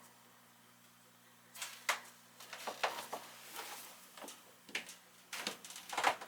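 Irregular clicks and knocks of hands and tools working on a gas furnace, starting about a second and a half in, with the loudest cluster near the end, over a faint steady hum.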